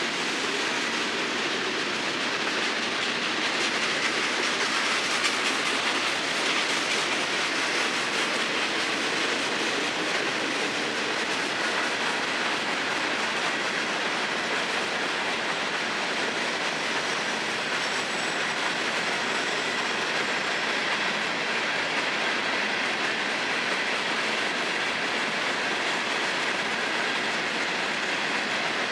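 Freight cars rolling past, with the steady noise of steel wheels running on the rails.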